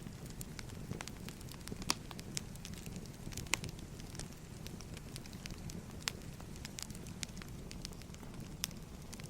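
Firewood burning: a steady low rush of flames with irregular sharp crackles and pops from the logs, several each second.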